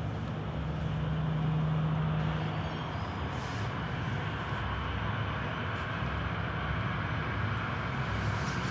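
Jet engines of a Boeing 737-8 (CFM LEAP-1B turbofans) running with a steady rumble and hiss, without sharp events.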